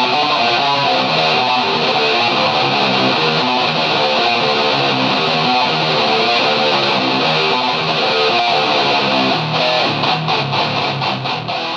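Electric guitar played through an ART DST 8080 powered processor with a heavily distorted, high-gain tone: a continuous run of notes that turns to fast, evenly repeated picked notes near the end.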